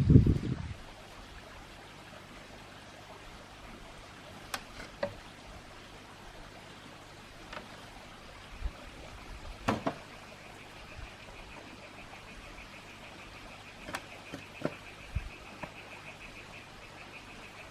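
A small animal's high, rapidly pulsing trill starts about ten seconds in and keeps going, with a few scattered clicks over faint background hiss.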